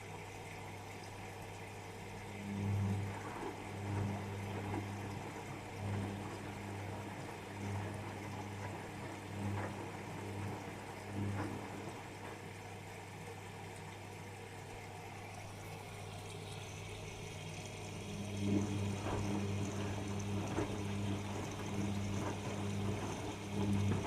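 Whirlpool FL 5065 washing machine in its drain and rinse cycle: a steady low motor or pump hum with water sloshing. The water sloshes in swells every second and a half or two, eases off, then comes back busier and more continuous near the end.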